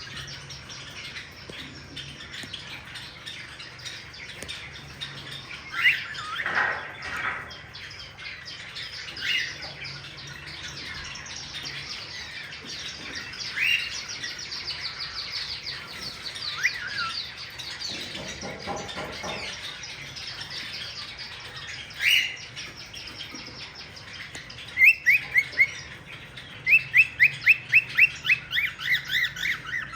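Cockatiels calling in an aviary: scattered short, rising chirps over a steady background chatter of many birds. Near the end one bird calls in a quick run of repeated chirps, about three a second.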